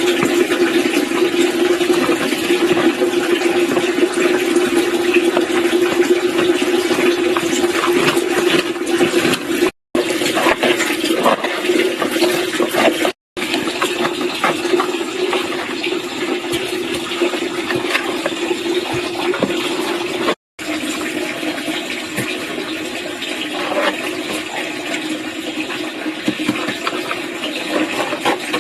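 Water running and splashing steadily, broken by three brief dropouts.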